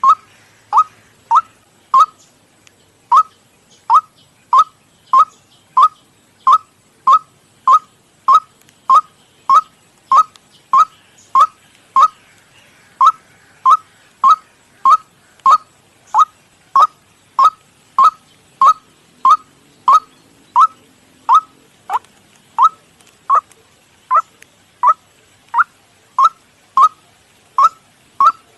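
White-breasted waterhen call track: a short 'kwak' note repeated steadily about one and a half times a second, with one brief pause about two seconds in. It is a recorded decoy call for luring waterhens.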